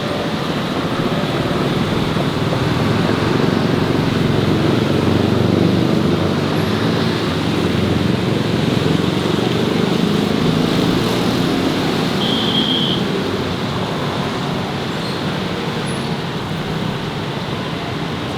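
Steady road traffic noise of passing vehicles, swelling to a peak about five seconds in and then easing off, with a brief high beep about twelve seconds in.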